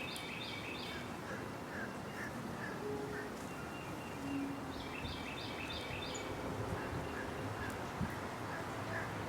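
Animal calls: two quick runs of five or six high notes, one at the start and one about five seconds in, with fainter, lower single calls repeating about twice a second between them.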